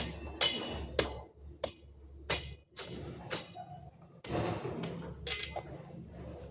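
A series of sharp knocks or strikes, about nine of them, coming roughly every half second, with a longer rough, noisy sound about four seconds in.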